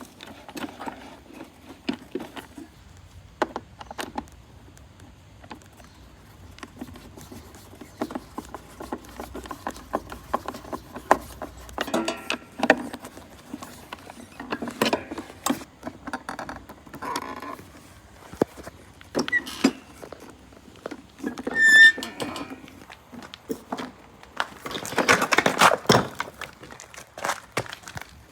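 Irregular clicks, knocks and rubbing as plastic lawn mower parts and hand tools are handled during disassembly, with a brief high squeak past the middle and a busier spell of rubbing and rattling near the end.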